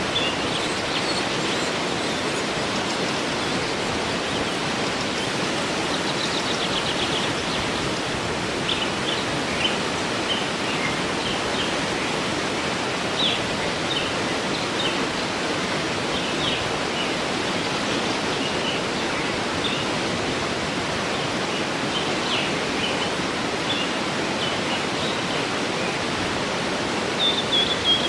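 Steady rush of a waterfall, with small birds chirping over it: short high chirps scattered throughout, a quick run of them about six seconds in and a louder call near the end.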